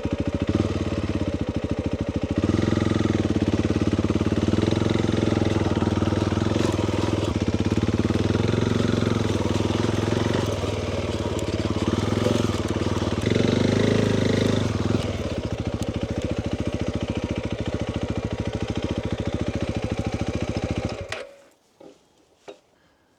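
Motorcycle engine running as the bike is ridden slowly a short way, the revs rising and easing a few times, then switched off about 21 seconds in.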